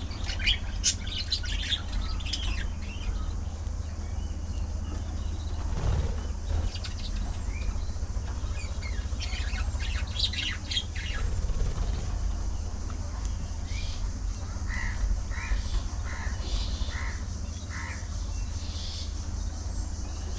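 A flock of budgerigars chirping and squawking in bursts, with a run of short, evenly spaced calls near the end, over a steady low hum.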